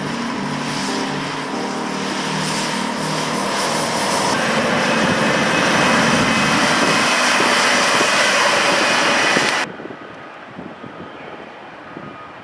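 A loud, steady engine roar with a faint whine, growing slightly louder toward the middle and cutting off suddenly near the end.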